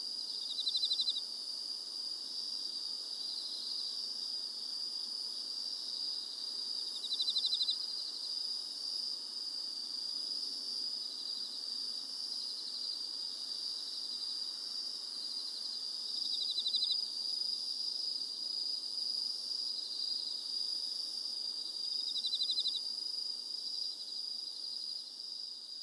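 Night insects chirping: a steady high-pitched drone, with a short pulsed trill standing out every few seconds.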